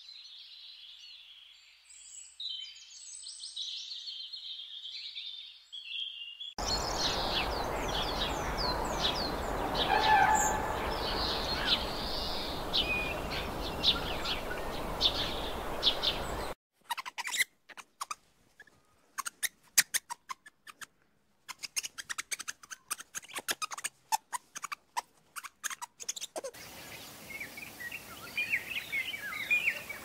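Bird chirps and calls in several clips that cut abruptly from one to the next, one of them over a steady hiss of background noise. In the middle comes a stretch of sharp, irregular clicks.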